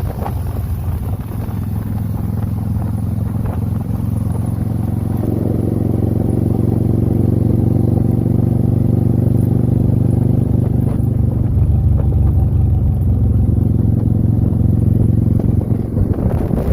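Motorcycle engine running at a steady speed while riding, getting louder over the first half and then holding even.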